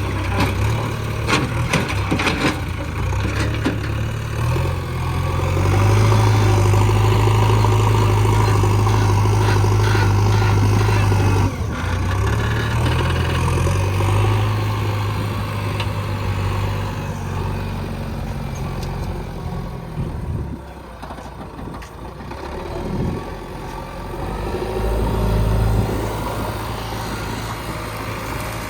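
Backhoe loader's diesel engine working. It is revved up to a loud, steady note about six seconds in, drops back suddenly a few seconds later, and eases off further near the two-thirds mark. A few sharp knocks sound in the first couple of seconds.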